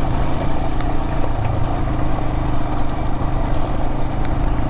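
Adventure motorcycle engine running steadily while riding, with the tyres rolling over thick loose crushed gravel and a few faint stone clicks.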